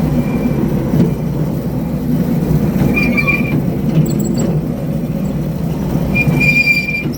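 Small amusement-park ride train running with a steady low rumble, broken by three short high squeals, the longest near the end.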